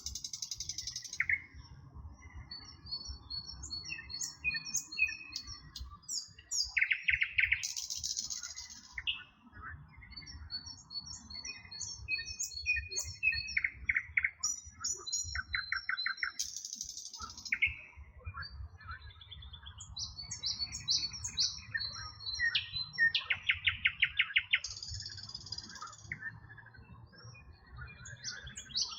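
A chorus of several songbirds singing at once, overlapping phrases of high whistles, chirps and rapid trills, with one phrase following another without pause.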